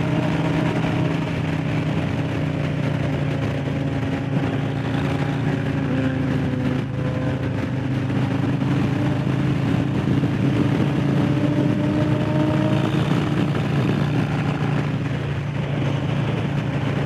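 Harley-Davidson Low Rider S's Milwaukee-Eight 117 V-twin running at a steady cruise, its pitch easing slightly up and down, with a steady rush of wind noise over it.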